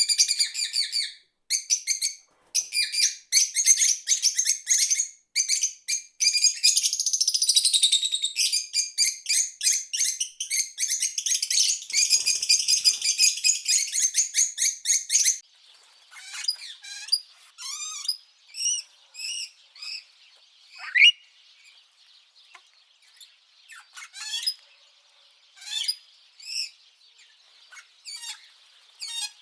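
Songbirds singing: a dense, rapid, high-pitched chattering song that cuts off abruptly about halfway through, followed by scattered separate chirps and call notes over a faint steady high hiss.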